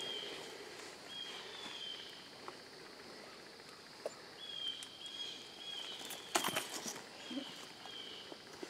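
A bird singing short, clear whistled notes, repeated every second or two, over soft rustling in dry leaves. A quick run of sharp clicks and rustles comes about two-thirds of the way through.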